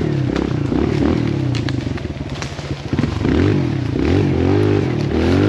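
Kawasaki KLX140L dirt bike's single-cylinder four-stroke engine revving up and down under throttle while being ridden. It eases off about two seconds in and picks up again about a second later, with a few scattered clicks and clatter.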